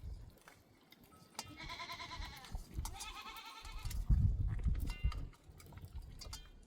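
Goats bleating: two long quavering bleats in the first half, about a second apart, and a short higher call later, with low rumbling thuds in between.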